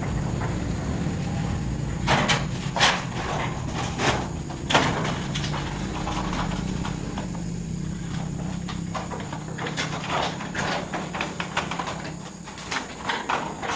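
A steady low hum, like a machine or engine running, with scattered sharp knocks and clicks over it.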